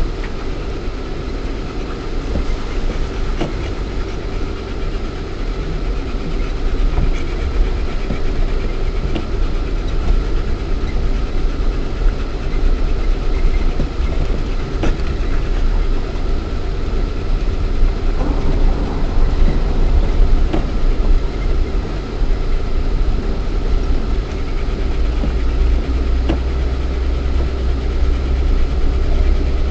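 Lada Niva 1.7i's four-cylinder petrol engine running at low speed, heard from inside the cabin, with scattered knocks and rattles from the body as it drives over rough ground. The low rumble grows heavier near the end.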